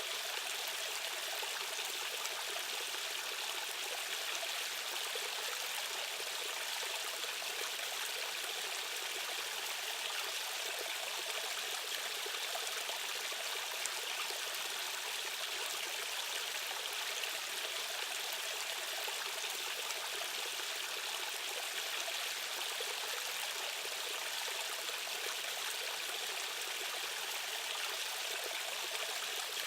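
Rushing stream water flowing steadily over rocks, a constant bright splashing hiss without pauses.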